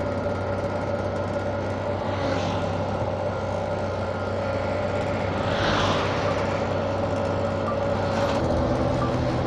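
Motorcycle engine running steadily at a low, even cruising speed of about 30 km/h, with road and wind noise; a soft swell of hiss comes twice.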